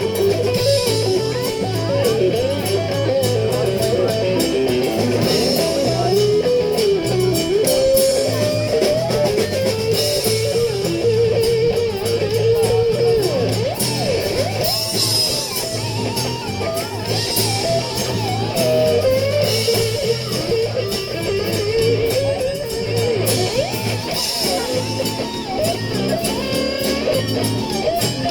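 Live blues band playing an instrumental break: an electric guitar solo with bending notes over bass and drum kit.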